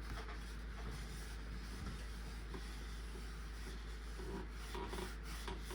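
Faint rubbing of a cloth wiping a dusty ceiling fan blade, with a few small scattered ticks.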